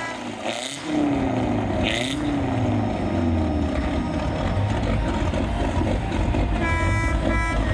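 Heavy trucks' engines running, with pitch rising and falling as they rev. About seven seconds in, a truck horn blows a multi-tone chord in short blasts.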